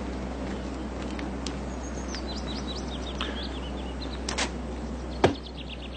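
Small birds chirping, with rows of quick, high chirps and downward-sweeping calls, over a steady low hum. A single sharp smack a little past five seconds in is the loudest sound.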